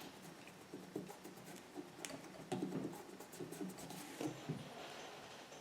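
Faint, irregular scratching of a Stabilo pencil drawn in short strokes around the edge of a paper collage, with a few light taps.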